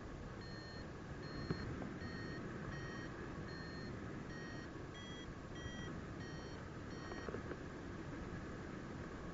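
Paragliding variometer beeping in lift: short electronic beeps about every 0.7 s, rising a little in pitch midway as the climb strengthens, then stopping about 7 s in. Steady wind rush underneath.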